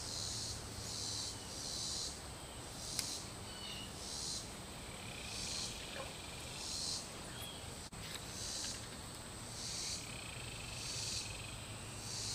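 Insects calling in a steady high drone, with louder pulses of their song coming about once a second.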